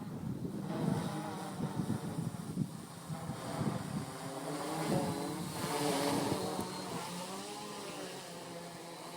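Homebuilt quadcopter's brushless motors and propellers whining, the pitch rising and falling as the throttle changes during a manoeuvre, with gusts of wind noise.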